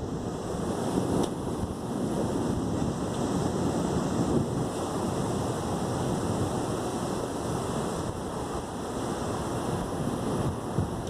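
Light thunderstorm: a steady rushing of wind and rain, with gusts buffeting the microphone.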